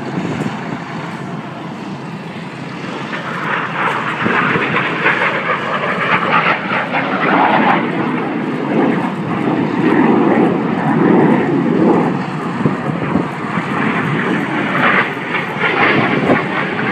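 Jet noise from a pair of BAE Hawk T1 jets, each with a single Adour turbofan, flying past in a low display pass. It swells about three seconds in and stays loud with a continuous rushing roar.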